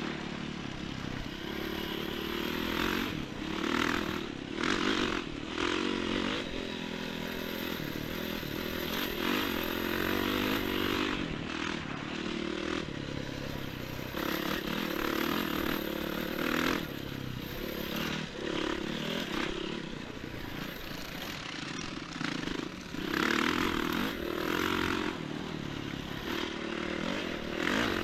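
Enduro motorcycle engine running under way, its pitch rising and falling as the throttle changes, with repeated bursts of rushing noise over it.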